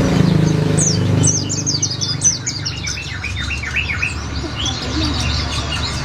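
Olive-backed sunbird singing: about a second in, a fast run of high, downward-sweeping notes, followed by scattered high chirps. A low rumble fills the first second.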